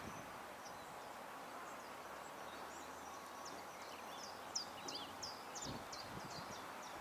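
Small garden songbirds at a feeder calling in many short, high, falling chirps, busier in the second half, over a steady outdoor background hiss. A few soft knocks near the middle.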